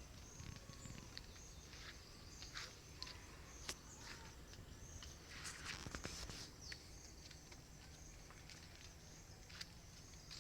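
Faint rural outdoor ambience: insects chirping in a steady high drone, with many short high chirps scattered through it and a low rumble beneath.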